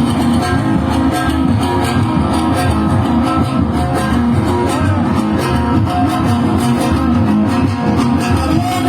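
Live band music: a plucked-string instrument plays the melody over a bass line and a steady beat, with no singing.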